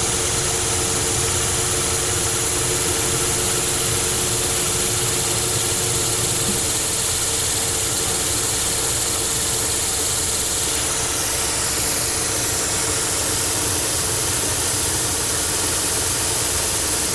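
Old Monarch engine lathe running steadily under power while turning the handle stock down toward size, a constant machine drone with gear whine. A steady hum fades out about six seconds in, and a faint high whine falls in pitch a few seconds later.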